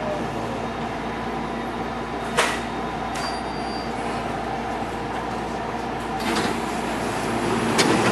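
Interior of a JR West 207 series electric train coming to a stand: a faint falling motor whine dies away in the first second, leaving a steady hum of the car's equipment. A single sharp knock comes about two and a half seconds in, and a few lighter clicks near the end.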